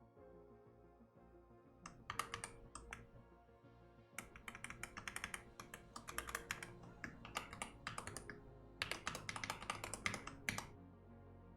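Computer keyboard typing in quick runs of keystrokes with short pauses between them, over soft ambient background music.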